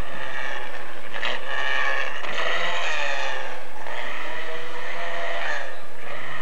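Rally car engine revving hard, its pitch climbing from about a second in, easing off mid-way, then climbing again and dropping near the end.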